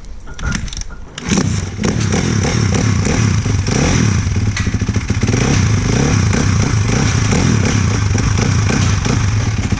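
2016 Kawasaki KX450F dirt bike's single-cylinder four-stroke engine starting: a few clatters, then it catches about a second in and runs steadily.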